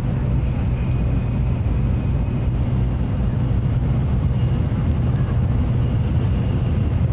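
Steady low rumble of a Shinkansen bullet train running at speed, heard inside the passenger car, with a faint high whine above it.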